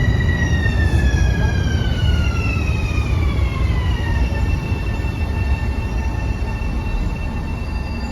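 Metro-North train rumbling past on the tracks, with a high whine that slides down in pitch over about three seconds and then holds steady, as the train slows.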